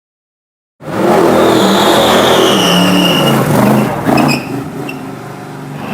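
American V8 racing car engine at full throttle, loud and gliding up and down in pitch as it accelerates up the hill, starting nearly a second in, then falling away and fading about four seconds in.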